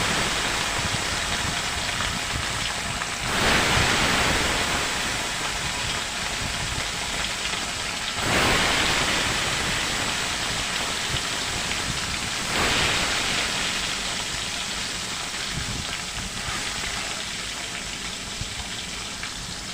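Pieces of katla fish, rubbed with salt and turmeric, frying in hot oil in a kadai with a loud, steady sizzle. The sizzle surges three times, about 3.5, 8 and 12.5 seconds in, as another piece goes into the oil, and each time slowly dies down.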